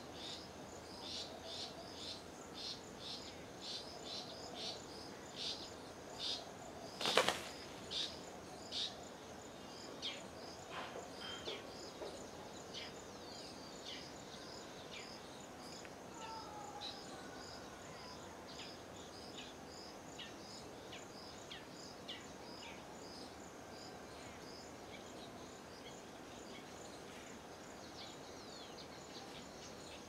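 A bird calling in short, high chirps repeated about one and a half times a second, loudest in the first third and then fading, over a steady outdoor hiss. One sharp snap, like a wing flap or a knock, comes about seven seconds in.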